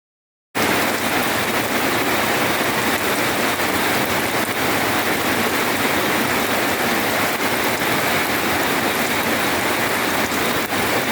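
Heavy rain pouring down steadily, a dense even hiss that starts about half a second in.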